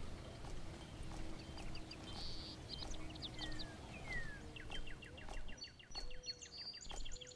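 Wild birds chirping and calling outdoors on a farm, with a couple of falling whistled notes and, from about the middle, a fast trill of rapidly repeated notes. A low steady rumble runs underneath.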